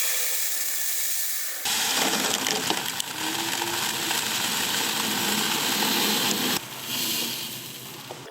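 A small power tool running with a dense grinding noise; it gets louder about two seconds in, drops off sharply about a second and a half before the end, then fades.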